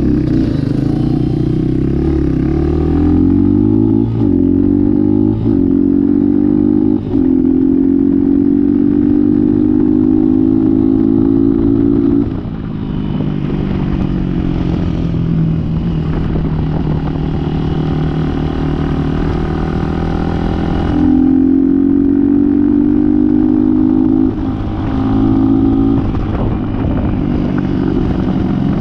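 Dirt bike engine running hard under way: the engine note climbs, holds high with a few brief dips, eases to a lower note partway through, then opens up again.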